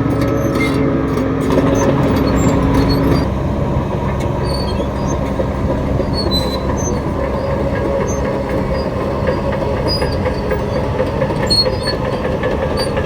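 Shantui DH17 bulldozer working: diesel engine running steadily with the clatter of its steel tracks, and the engine note changes about three seconds in.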